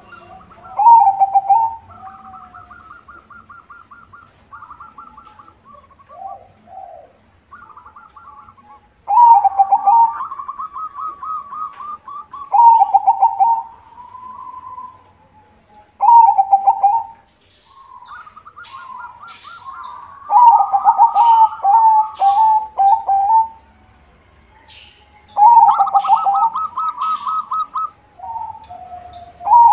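Zebra dove (perkutut) singing its cooing song: six loud phrases, each opening with a burst of rapid pulsed notes and running into longer drawn-out coos, with softer cooing in between. Faint high chirps of smaller birds sound in the second half.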